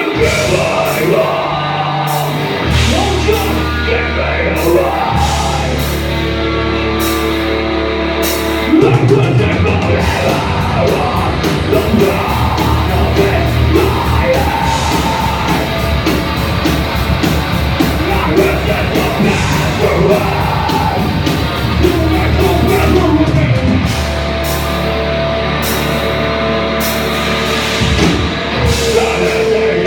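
Live rock band playing loud, heavy, distorted music with drums and sung and yelled vocals. The band moves into a louder, fuller section about nine seconds in.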